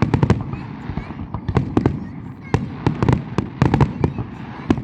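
Fireworks going off in quick, irregular bangs and crackles, several a second in clusters, over a low rumble.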